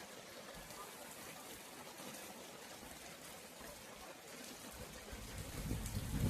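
Steady rain with trickling water, growing louder with a low rumble near the end.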